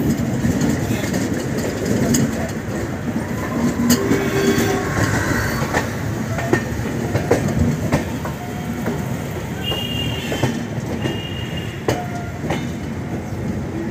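Indian Railways passenger coach rolling along the track: a steady low rumble of wheels on rail, broken by irregular clicks and clacks as the wheels cross rail joints.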